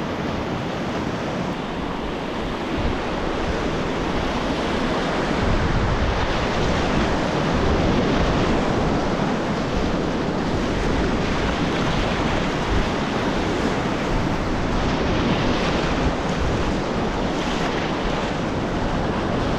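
Whitewater rapids rushing steadily around a kayak, with water and wind buffeting the GoPro action camera's microphone as a low rumble that grows louder about five seconds in.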